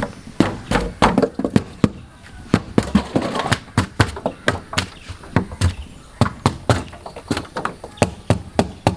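Repeated sharp knocks and thuds on a refrigerator's metal body as the pieces cut out for the speaker holes are knocked out one by one, at an uneven pace of about two or three blows a second.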